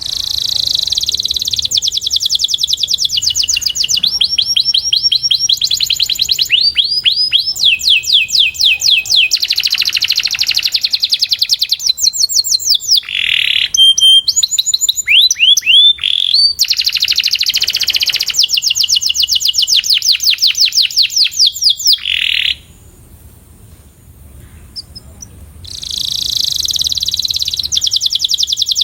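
Domestic canary singing a long, high-pitched song of fast rolling trills and runs of quick rising notes, pausing for about three seconds near the end before starting again.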